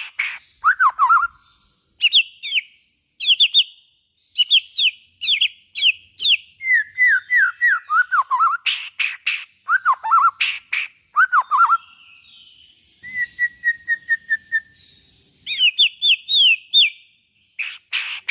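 White-rumped shama (murai batu) singing a loud, varied song. Clear whistled phrases, some sliding down and some rising then falling, are mixed with harsh clicking chatter, and a quick run of even notes comes about two-thirds of the way through.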